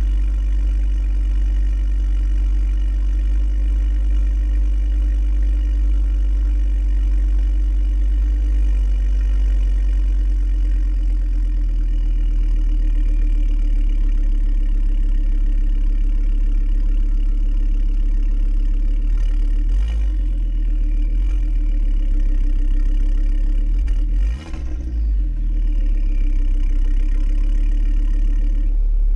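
Mk2 Ford Focus ST engine idling after a cold start with a steady note. The note settles to a different pitch about twelve seconds in, and it briefly dips and wavers near twenty seconds and again near twenty-five seconds.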